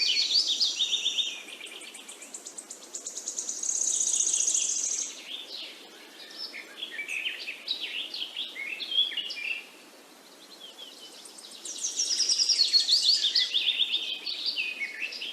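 Songbirds singing in rapid trills and chirping phrases, with loud spells near the start, around four seconds in and again from about twelve seconds, and scattered quieter chirps between.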